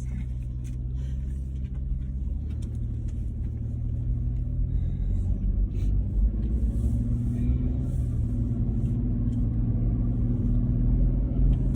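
Car engine and road rumble heard from inside the cabin while driving, the engine note and loudness rising gradually as the vehicle picks up speed.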